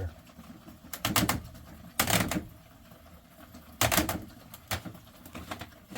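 Water gurgling and splashing in a basement drain pipe in a few short, irregular bursts, as more water comes down and the line starts to fill up.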